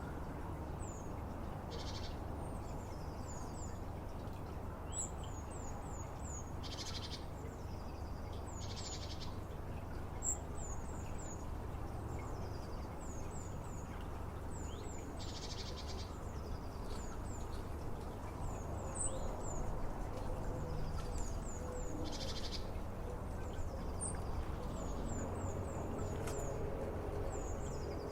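Small songbirds singing: quick runs of short, very high down-slurred notes repeated again and again, mixed with brief buzzy phrases, over a steady low background rumble.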